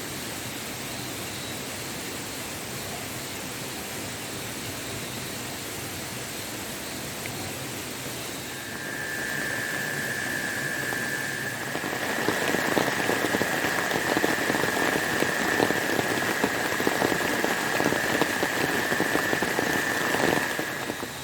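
Steady rush of a waterfall. About a third of the way in, a steady high whistle starts. A few seconds later, dense crackling and spitting like food frying in hot oil sets in, louder than the water. The crackling and the whistle stop together shortly before the end.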